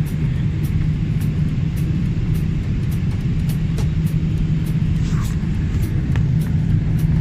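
Airbus A320 cabin noise: the jet engines and airflow make a steady low rumble with a constant hum, with faint regular ticks over it.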